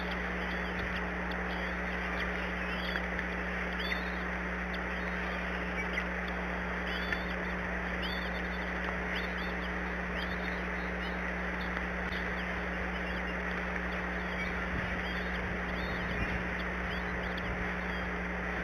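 Eagles at the nest giving short, high, squeaky calls again and again, over a steady hiss and a low electrical hum.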